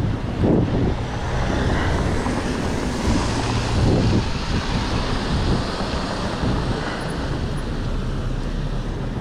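Wind rushing on the microphone and road noise during a bicycle ride along city streets, with car traffic, swelling louder about half a second in and again around four seconds.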